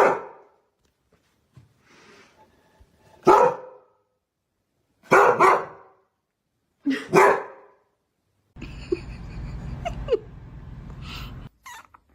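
A dog barking: about five loud single barks spread over the first eight seconds, two of them close together. A steady low rumble follows for about three seconds and cuts off abruptly.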